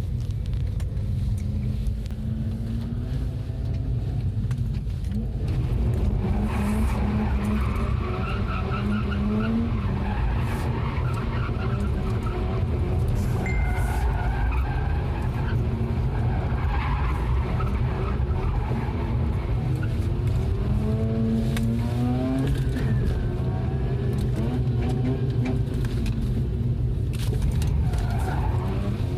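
Mazda RX-8's two-rotor rotary engine revving up and down again and again while drifting, with tyres skidding and squealing, over a constant low rumble.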